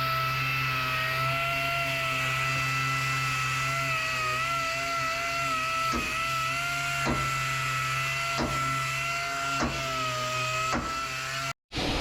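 An electric motor runs with a steady whine over a low hum, with sharp ticks about once every second and a bit from halfway on; it cuts off abruptly just before the end.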